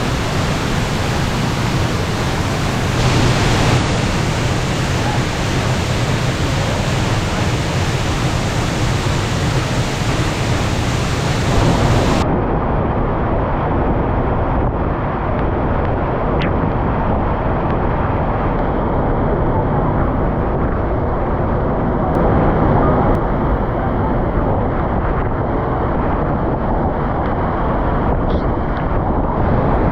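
Waterfall in flood: a loud, steady rush of heavy falling water. About twelve seconds in, the high hiss drops away abruptly and the roar turns duller.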